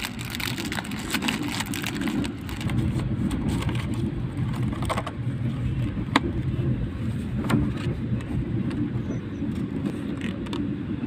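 Steady low rumble of a moving train heard from inside the carriage, with a few sharp clacks.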